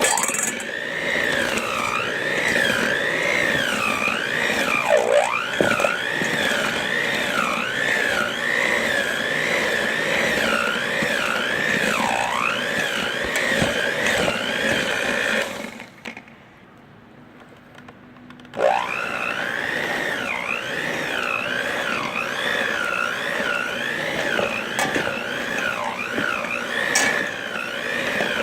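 Handheld electric mixer running with its beaters in a bowl of slow-cooked chicken, shredding the meat; the motor whine wavers and dips in pitch as the beaters work. It stops for about three seconds just past halfway, then starts again.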